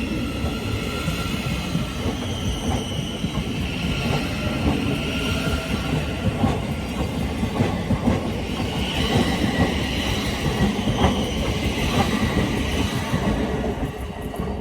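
A passenger train running past on the rails, with a dense clatter of wheels over rail joints and high-pitched steady squealing tones above it. The sound dies away near the end.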